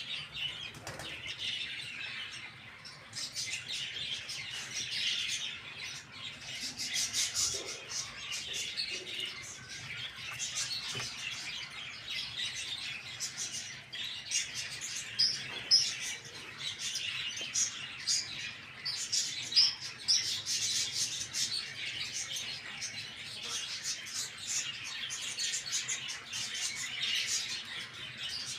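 A flock of small birds chirping continuously in high-pitched twitters, with wings fluttering throughout.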